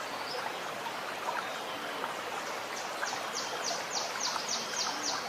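Running water gurgling steadily. In the second half, a bird sings a quick run of about nine high, downward-sliding notes. A few faint low notes sound now and then beneath the water.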